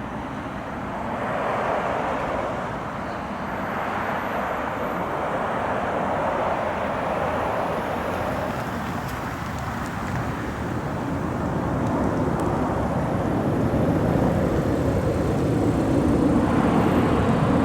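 Boeing 787-10 Dreamliner's twin turbofan jet engines at takeoff power, a steady rushing noise that grows gradually louder and deeper toward the end as the jet draws nearer.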